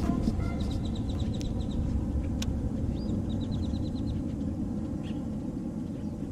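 A bird calls twice, each time a quick run of high repeated chirps, over a steady low rumble, with a couple of sharp ticks between.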